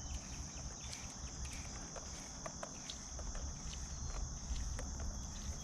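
Steady high-pitched drone of insects in summer vegetation, with scattered faint clicks and a low rumble beneath.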